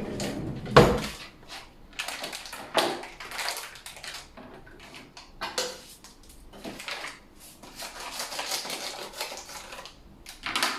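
Kitchen handling noises: irregular clicks, taps and rustling, with one sharp knock about a second in.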